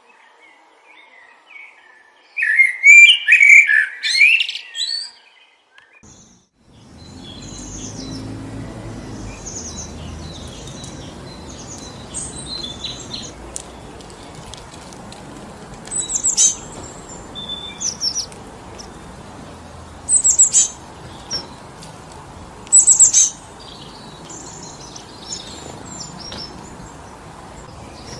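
Small birds chirping and calling in a forest, a loud cluster of chirps near the start, then scattered high chirps and a few sharp calls. Wind rushing through the trees sets in about six seconds in and stays steady.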